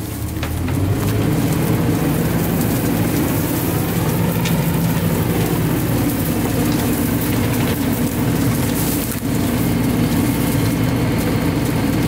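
Engine of a CNG-powered Autocar ACX rear-loader garbage truck running steadily, with a hissing, rattling noise over it. A faint whine rises and falls about four seconds in.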